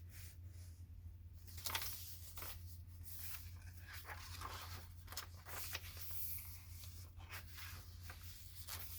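Faint rustling and crinkling of paper pages and cards as a handmade junk journal is handled and leafed through, with a brief louder rustle about two seconds in. A steady low electrical hum runs underneath.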